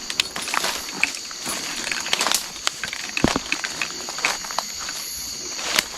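A steady high chorus of night insects, with irregular crackles and ticks of dry brush being moved through or stepped on. A sharper click comes about three seconds in.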